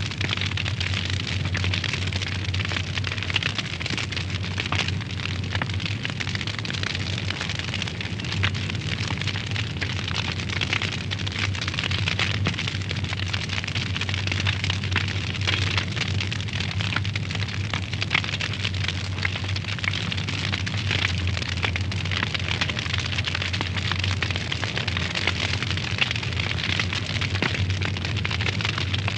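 Wood fire burning in a fireplace, crackling continuously with frequent sharp pops and snaps over a steady low hum.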